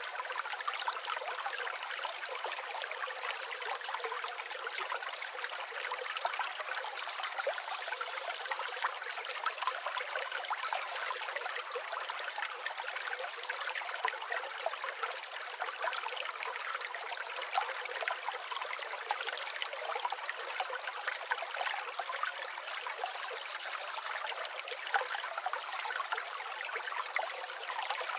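A shallow river or stream flowing steadily over stones, a continuous babble of trickling and rushing water with no low rumble.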